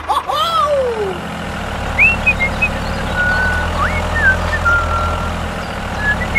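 A tractor engine running with a steady low drone. A falling swoop sounds in the first second, and short high chirps and whistles come over the drone from about two seconds in.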